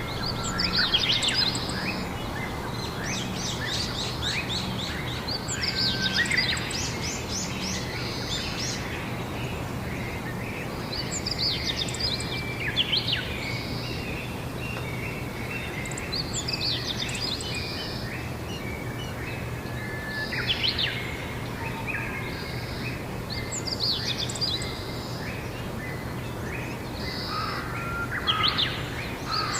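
Songbirds singing outdoors: short, quick chirping and trilling phrases that come every few seconds. Underneath is a steady background hiss and a low, even hum.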